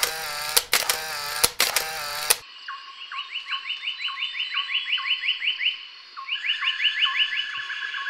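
A short burst of electronic intro music with sharp clicks cuts off after about two seconds. Then come bird calls: a rapid run of short, rising, chirping notes, about five a second, over slower, lower notes, breaking off briefly near the end before a second run.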